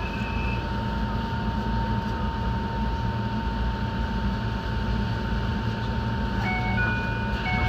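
Enoden electric train running along the track, heard from inside the car: a steady low rumble of wheels and running gear with a thin steady whine. Near the end a few short tones step up and down in pitch.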